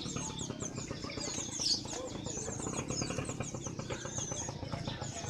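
Many caged songbirds chirping and whistling at once: a dense mix of short chirps and quick slurred whistles over a steady low background hum of the market.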